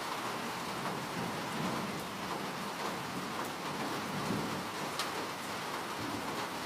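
Steady rain falling, with a few sharper single drop ticks standing out now and then.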